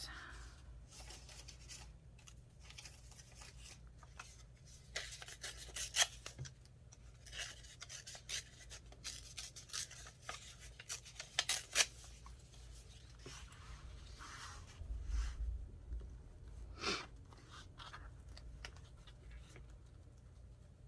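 Paper craft pieces being handled and shuffled: scattered short rustles, scrapes and light taps over a steady low hum.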